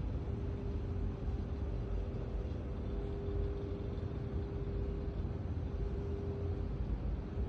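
Steady low rumble with a steady hum on top and no distinct events.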